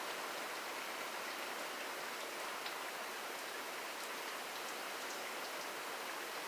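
Steady rainfall: an even hiss of rain with a few faint, scattered drop ticks.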